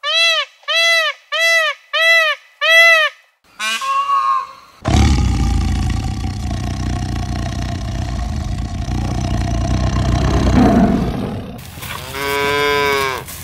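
An Indian peafowl (peacock) gives a quick series of five short honking calls and then one more. A tiger follows with a long, loud growling roar lasting several seconds, and a cow moos once near the end.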